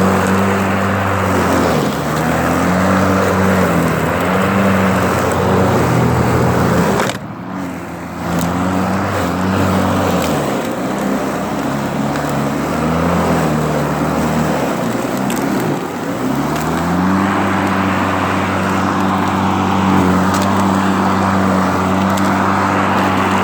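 Ryobi 40-volt battery lawn mower running with a homemade spiked dethatcher blade, its electric motor whining steadily over a rushing hiss of grass and thatch being raked up. The motor's pitch sags and recovers several times as the blade digs into the thatch.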